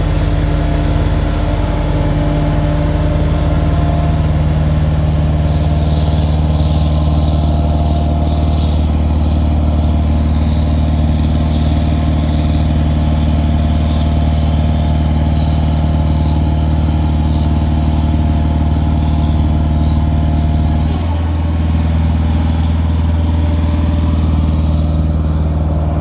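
An engine running steadily at a constant speed, with a brief drop in pitch about 21 seconds in before it settles again.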